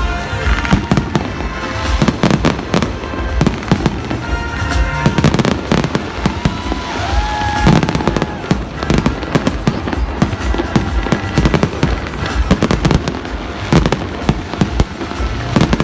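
Fireworks going off in quick succession: a dense, continuous run of bangs and crackles from exploding shells.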